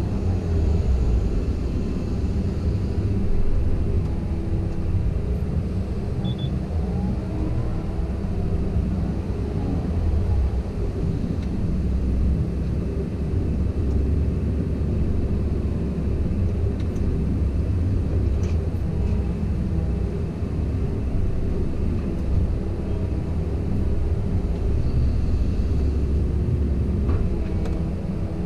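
Komatsu PC170LC-10 excavator's diesel engine running steadily under working load, with brief rising and falling tones about eight to ten seconds in and again near the end as the machine works.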